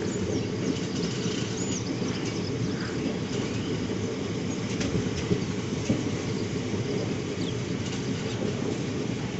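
Train running past with a steady low rumble, and a few short high chirps above it in the first half.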